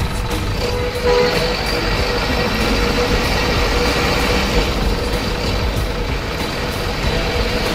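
Radio-controlled model truck driving, a steady mechanical running sound with no breaks.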